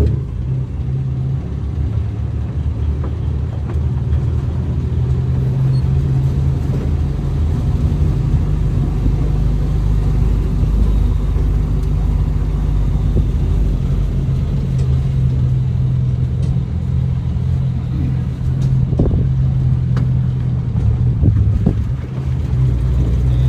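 Motor vehicle engine running steadily with a low, even hum, as from a car on the move.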